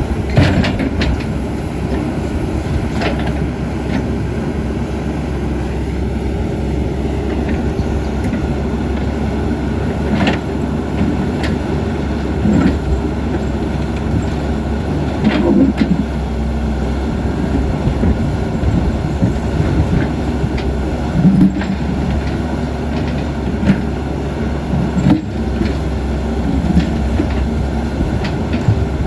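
Caterpillar 320D hydraulic excavator's diesel engine running steadily under working load, with occasional sharp knocks and clanks from the machine at work.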